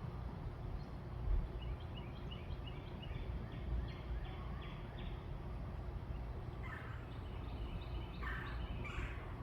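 Backyard birds calling: a quick run of short high notes, then several louder, harsh calls in the last few seconds, over a steady low rumble.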